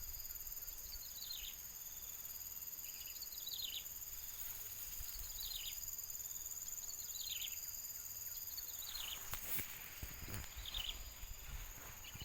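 Outdoor ambience: a steady high-pitched insect drone, with a bird repeating a short falling call about every two seconds. A few soft knocks come near the end.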